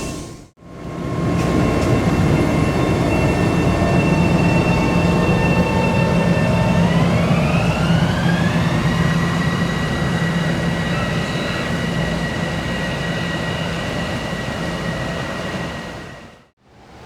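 Commuter train running through with a rumble and a steady electric whine whose tones glide up in pitch about seven seconds in as it picks up speed; the sound cuts off abruptly near the end.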